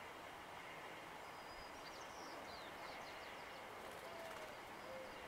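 Quiet outdoor ambience with distant small birds chirping: a quick run of short, high chirps about two to three seconds in, and a few faint low held notes near the end.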